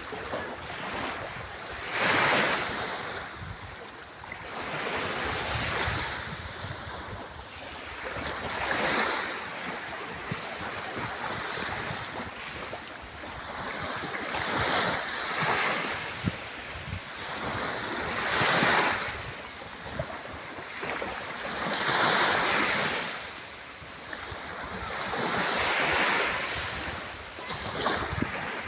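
Sea waves breaking on the shore, a surging wash that swells and falls back about every three to four seconds.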